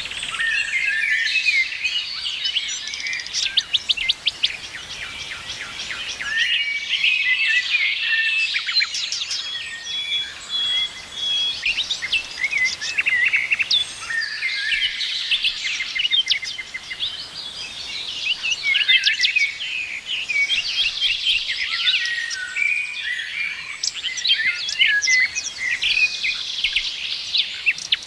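A chorus of songbirds singing and chirping together, dense overlapping trills, whistles and quick chirps with no pause.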